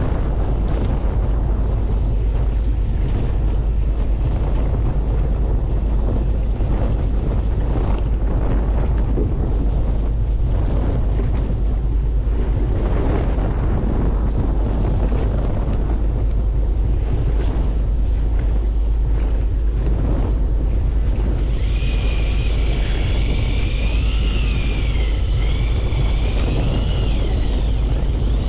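Wind buffeting the microphone over the steady low rumble of a fishing boat at sea. About three-quarters of the way through, a high wavering whine with several pitches joins it and carries on.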